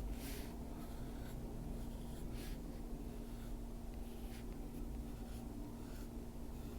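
Colored pencil shading on paper: short, soft scratchy strokes every second or two, over a steady low hum.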